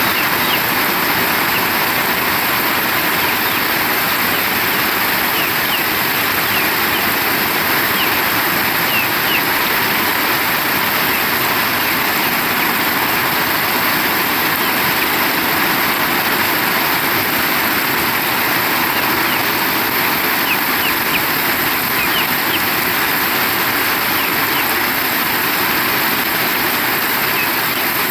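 Heavy rain pouring down steadily, a dense unbroken hiss of water.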